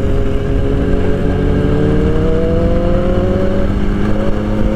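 Motorcycle engine running under way, its pitch slowly rising for the first few seconds and then holding steady, over a heavy rush of wind noise.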